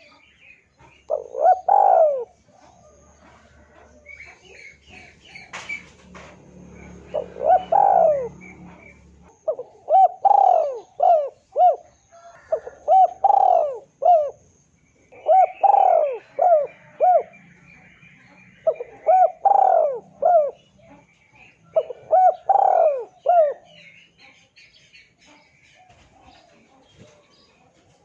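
Spotted doves (tekukur) cooing: about seven phrases of three to five throaty coo notes each, spaced a second or two apart. This is the call used to lure a rival dove into answering. Smaller birds chirp faintly in the background.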